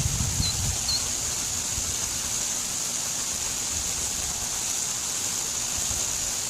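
Ultra-high-voltage transmission line conductors giving off a steady, high-pitched hiss of corona discharge. It is the sign of the air around the conductors being ionised, as happens in humid or rainy weather, and marks corona loss.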